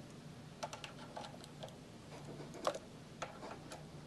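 Scattered light metal clicks and knocks from a small belt sander's pulley assembly being moved by hand to a new position, the loudest about two and a half seconds in, over a faint steady low hum.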